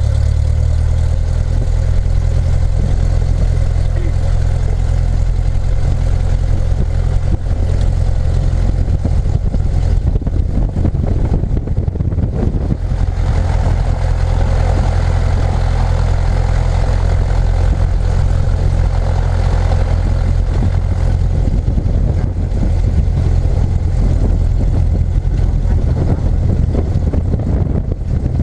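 Light aircraft's piston engine running at a steady idle just after start-up, a constant low drone.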